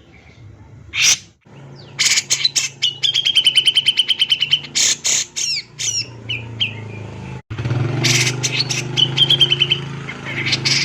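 Male grey-cheeked bulbul (cucak jenggot) singing hard: rapid strings of sharp notes running into a fast trill, then quick downward-slurred calls. The song breaks off for an instant about seven and a half seconds in and starts again with another burst and trill.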